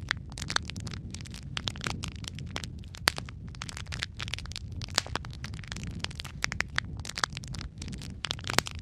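Wood fire crackling and popping irregularly, with sharp snaps over a steady low rumble of the flames.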